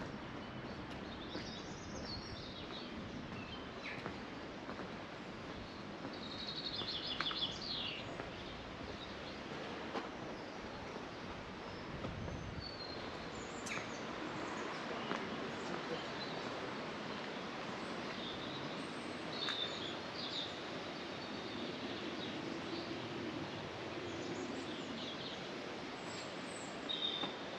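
Small birds chirping now and then over a steady outdoor background hiss, the loudest a short trill about seven seconds in.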